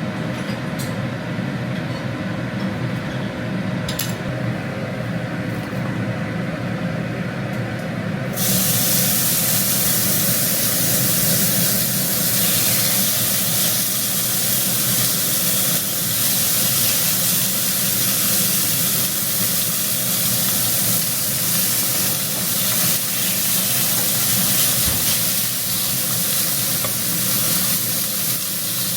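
Beef short ribs frying: a loud, steady sizzle that starts suddenly about eight seconds in. Before that, only a steady low hum with a couple of faint clicks.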